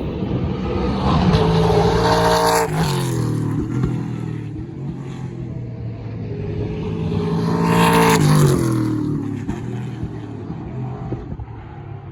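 Race cars passing at speed, twice, about six seconds apart: each engine note swells, then drops sharply in pitch as the car goes by.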